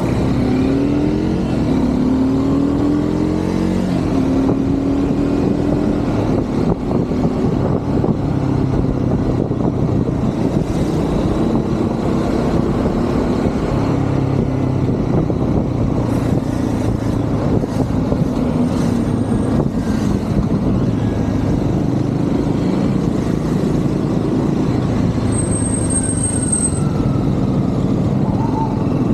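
Triumph Scrambler 400 X's single-cylinder engine running on a ride through city traffic, its pitch rising in steps through the first few seconds as the bike accelerates, then holding steady under traffic noise.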